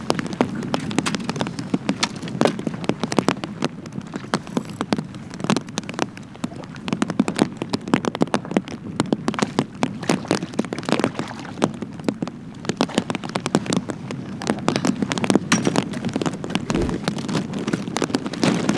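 Rain falling on the boat: many dense, irregular drop impacts over a steady low rumble.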